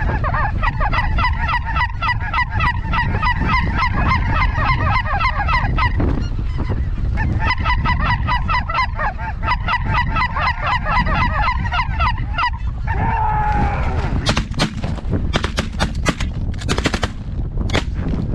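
A dense chorus of lesser snow geese calling, rapid high yelps over one another, with strong wind rumble on the microphone. About fourteen seconds in, a quick volley of many shotgun shots rings out, fired by several guns in close succession.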